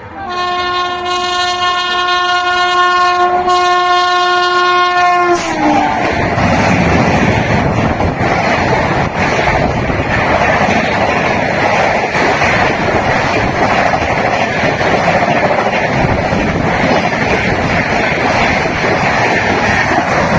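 WAP-7 electric locomotive sounding its horn: one steady tone held for about five seconds that drops in pitch as it cuts off. The train then passes at speed with a loud, steady rushing noise.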